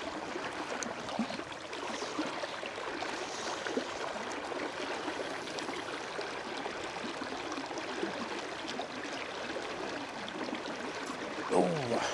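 Shallow river riffle running steadily. Near the end comes one short sound that falls sharply in pitch.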